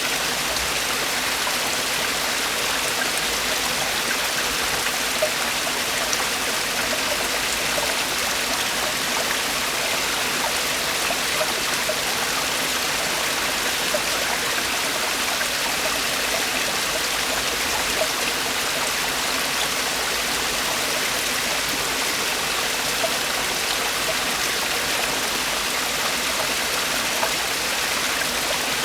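Valley stream water falling and splashing over rocks in a steady, even rush, with small splashes ticking through it now and then.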